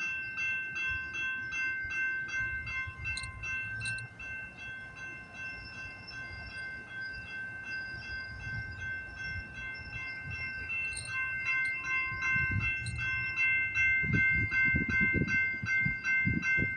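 Railroad crossing bell ringing on and on at an even beat while a train stands at the crossing. Beneath it runs a low rumble from the train, which turns into louder low thumps in the last few seconds.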